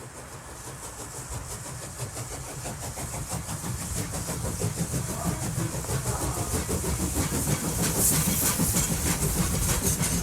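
Model train running along the track, its small electric motor humming and its wheels clicking rhythmically over the rail joints, growing steadily louder as it approaches.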